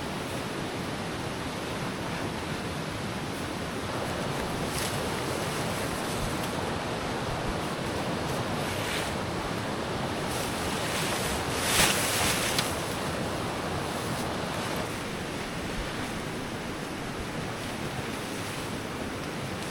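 Steady rush of flowing river water. A brief louder scuff or rustle comes about twelve seconds in, with fainter ones around five and nine seconds.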